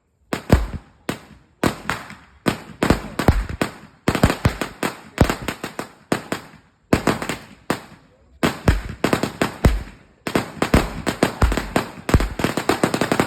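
A 1,000-shot 'sawa' firecracker belt going off in rapid clusters of sharp cracks, with short gaps between the bursts.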